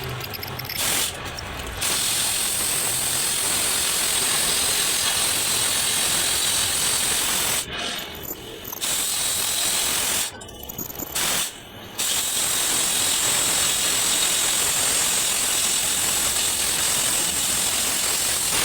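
A workshop tool running with a loud, steady, hissing mechanical noise, stopping and restarting a few times: briefly about a second in, again near eight seconds, and twice around ten to twelve seconds.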